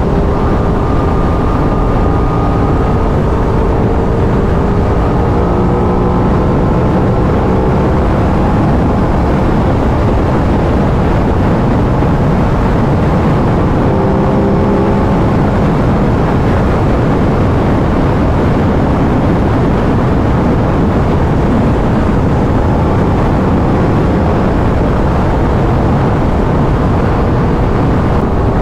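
Aprilia RS 660's parallel-twin engine on its stock exhaust, running steadily at highway cruising speed under a dense, even rush of riding noise.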